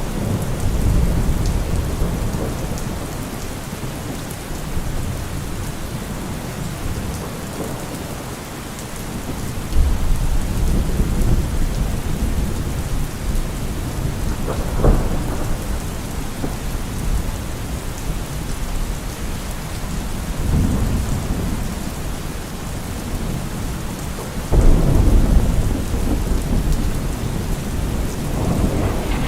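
Steady rain with thunder rolling in low rumbles that swell and fade several times; the loudest roll starts suddenly near the end.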